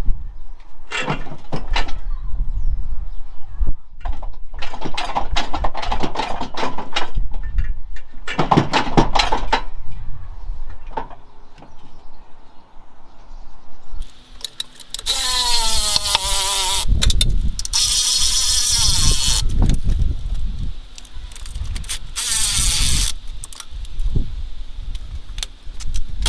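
Metal knocks, clicks and clanks of hand tools and parts being worked while a gearbox is fitted and mated to an engine. In the second half a tool whirs with a loud hiss in three bursts, its pitch gliding down at the first.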